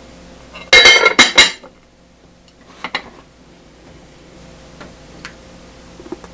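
Dishes and utensils clattering: a loud burst of ringing clinks about a second in, a few softer clinks around three seconds, then scattered faint taps.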